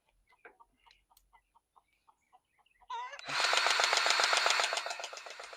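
Milwaukee battery-powered grease gun pumping grease into an excavator fitting: its motor runs with a loud, rapid pulsing buzz for about three seconds, starting a little past halfway. A short honk-like call sounds just before it, with faint ticks earlier on.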